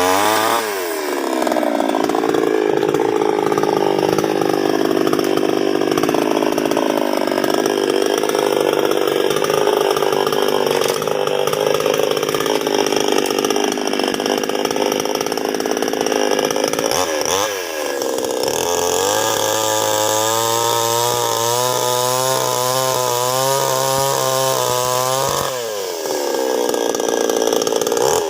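Two-stroke chainsaw running at high revs, cutting wood. Its revs drop briefly and climb again about 17 seconds in and again near the end, with the pitch wavering under load in between.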